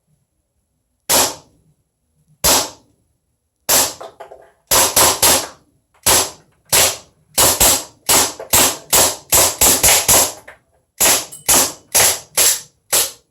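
HK VP9 gas blowback airsoft pistol firing about two dozen semi-automatic shots, each a sharp report with the slide cycling. The first few are about a second apart, then they come in quicker strings of several shots. The last shot empties the magazine and the slide locks back.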